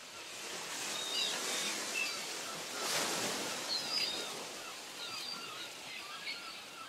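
Many small birds chirping in short, quick calls over a steady rushing noise that swells about three seconds in.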